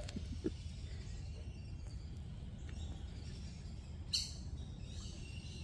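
Outdoor ambience of birds chirping over a steady low rumble, with one short, louder high chirp about four seconds in.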